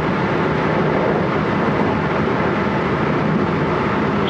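JR West 223 series electric train standing at a platform, with a steady hum and hiss from its onboard equipment.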